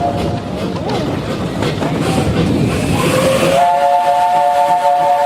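Steam locomotive whistle sounding several notes at once, with the train running beneath it as a rough rumble and clatter. The whistle stops right at the start and blows again about three and a half seconds in, held for about two seconds.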